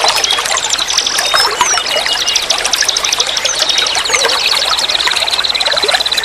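Forest stream flowing and trickling steadily, with birds chirping and trilling over it; a high rapid trill sets in about two-thirds of the way through.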